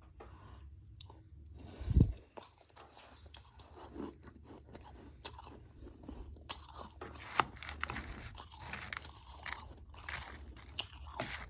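Close-up chewing and crunching of powdery frozen ice with some harder chunks: crisp crackly crunches, sparse at first and dense from about the middle on. A dull thump about two seconds in is the loudest sound.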